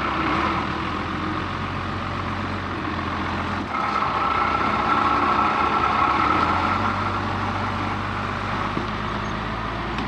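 Ram pickup's engine running under load as it is eased through icy ground. The revs rise about four seconds in and ease off a few seconds later.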